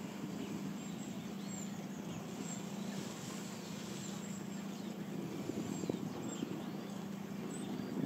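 A few faint, short, high bird calls here and there over a steady low hum.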